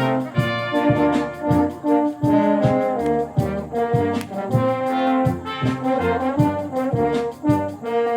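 A wind band playing: brass and woodwinds hold chords over a steady beat of drum strikes.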